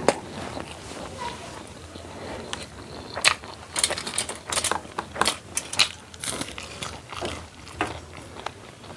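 Close-miked eating: a person chewing mouthfuls of food, with a run of sharp, crunchy clicks from about three to seven seconds in.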